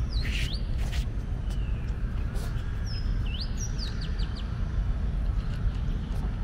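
Birds calling with whistled notes that swoop down and then rise sharply, once at the start and again about three seconds in, over a steady low rumble. A few sharp crunches come from a cat chewing dry kibble close by.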